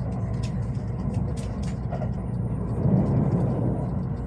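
Steady low vehicle rumble, swelling slightly about three seconds in, with scattered sharp clicks over it.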